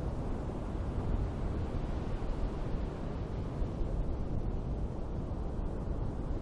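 Ocean surf washing on a beach: a steady, even rush of waves, heaviest in the low end.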